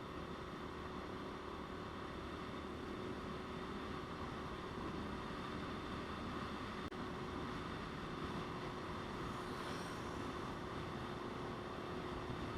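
Motorcycle riding at a steady speed: an unchanging engine note under even wind and road noise.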